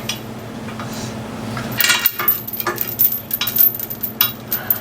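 Heavy steel lifting chain clinking and rattling as it is handled and hooked onto the engine's rear lifting point: a quick run of metallic clinks that starts about two seconds in.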